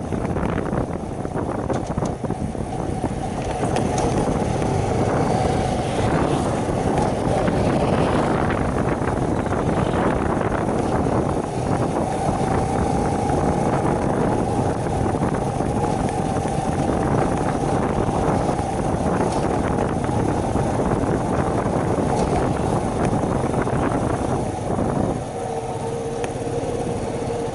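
Shineray 50cc moped engine running while riding, under heavy wind buffeting on the microphone. Near the end the engine drops to a lower, steady note.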